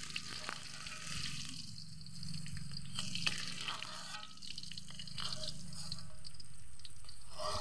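Tofu frying in hot oil in a metal wok, sizzling steadily, with the spatula scraping and clicking against the wok now and then as the pieces are turned.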